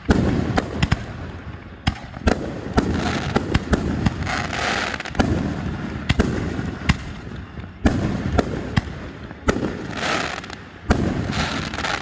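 Aerial fireworks going off in quick succession: a string of sharp booming bursts, many followed by crackling and hissing sparks, without a break.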